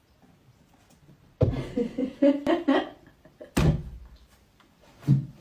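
Three loud thumps, like something knocking or banging against a door or furniture, the first about a second and a half in and the others roughly two seconds apart. Between the first two come a few short pitched voice-like sounds.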